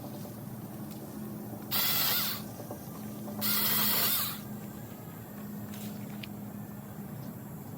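Beihong mini electric chainsaw run in two short bursts, each under a second, about a second and a half apart, over a steady low hum.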